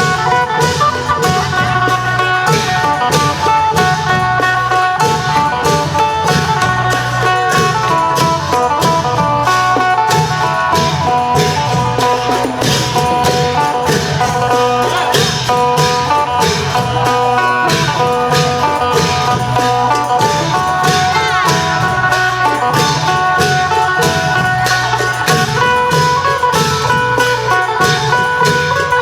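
Isan phin (plucked lute) playing a running melody over klong yao long drums, with sharp percussion strikes keeping a steady, driving beat.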